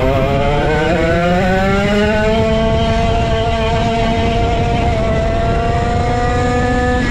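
Vintage go-kart's 135cc Sudam engine accelerating. Its pitch rises for about three seconds, holds high and nearly steady, then drops off suddenly near the end.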